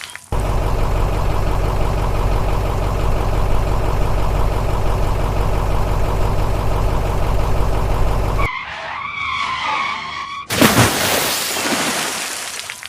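Vehicle engine running steadily for about eight seconds. It cuts off into a short wavering higher-pitched sound, then a loud rushing whoosh near the end.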